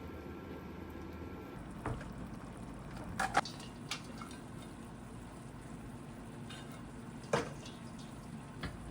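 Steady bubbling like liquid on the boil, with a few sharp clicks and clinks over it; the loudest come in a quick pair a little over three seconds in and once more past seven seconds.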